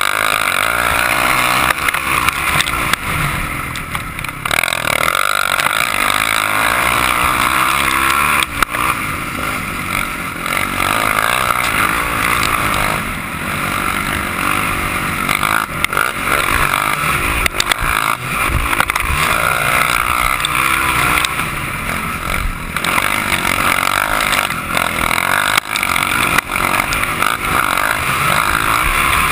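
Motocross motorcycle engine running hard on a dirt track, revving up and down continuously through gear changes and throttle shifts.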